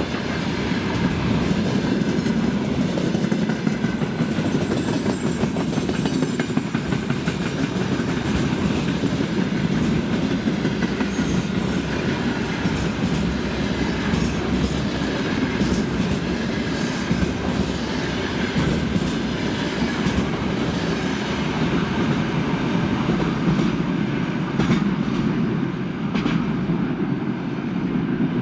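Loaded freight train rolling steadily past, its wagon wheels clattering over the rail joints.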